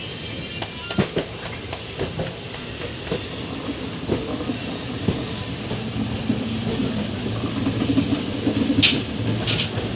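Express train's ICF passenger coach running along the track: a steady rumble with the wheels knocking over rail joints about once a second, and a few brief high-pitched bursts near the end.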